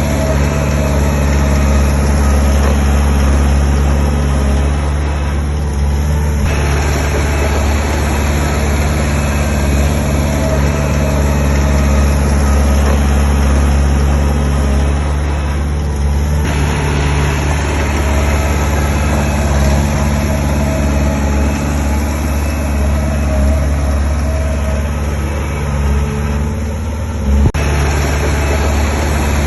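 Heavy diesel engine of earthmoving machinery running steadily with a deep drone. Its higher clatter fades briefly three times, about every ten seconds, and a single sharp knock comes near the end.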